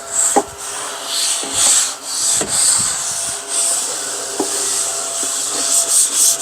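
Small handheld vacuum running with a steady hum while its nozzle is worked over cardboard jigsaw pieces to clear dust, giving patchy scratchy rubbing and a few clicks of pieces.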